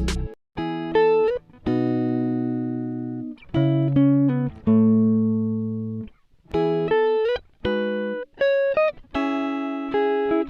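Background music: a guitar plays short chord phrases with sliding notes, each ringing out and then stopping before the next. A fuller passage cuts off just after the start.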